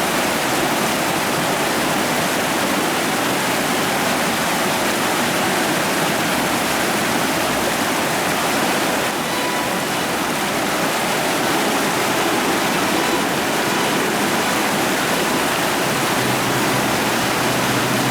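Creek water rushing steadily over rocks, a continuous even rush. A faint low hum joins near the end.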